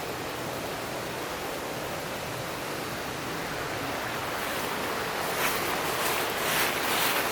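River water rushing steadily through a rocky gorge. From about five seconds in, irregular splashing close by joins it and grows louder.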